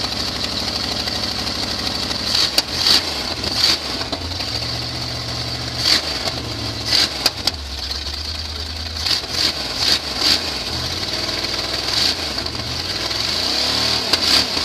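Hot-rodded 1976 Chevy stepside pickup's engine running on open headers, with short sharp blips of the throttle every second or two and the engine pitch shifting up and down between them.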